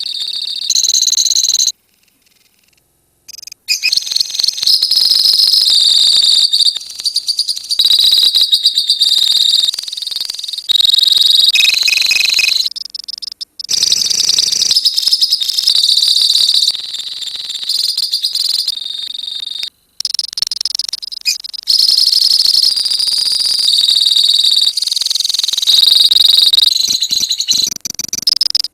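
A colony of lovebirds chattering in fast, high-pitched chirps and rattling trills, several birds at once. The recording cuts off abruptly a few times, with a short silence about two seconds in.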